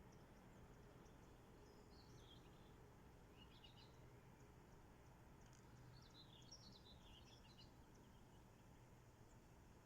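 Near silence with faint birdsong: short twittering phrases about two seconds in and again around three and a half seconds, and a longer twittering run from about six to eight seconds, over a low steady background hum.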